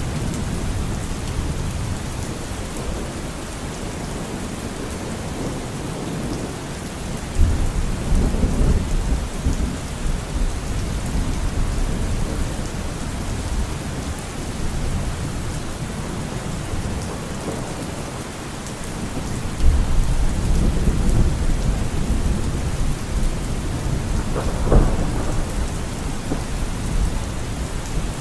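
Steady rain falling, with thunder: two low rolls of thunder begin suddenly about seven and twenty seconds in, and a sharper crack comes near the end.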